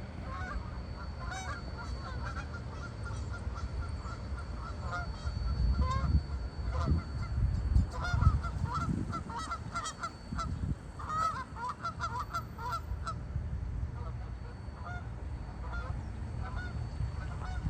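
Geese honking back and forth, many short calls overlapping, busiest in the middle stretch, over a low rumble.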